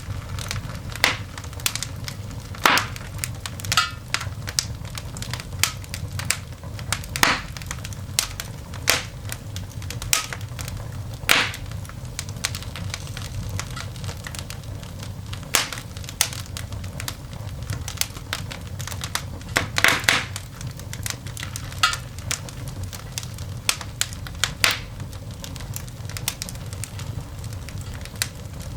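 Coal fire burning in a cast iron dog grate, crackling with irregular sharp snaps and pops over a steady low rumble; a cluster of louder pops comes about twenty seconds in.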